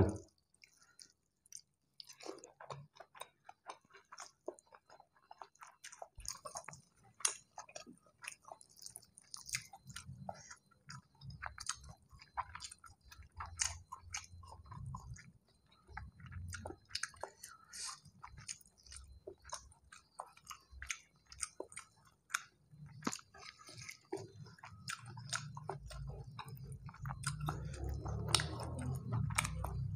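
Close-up chewing of rice and Padang curries eaten by hand, with many small irregular wet mouth clicks. A low rumble builds over the last few seconds.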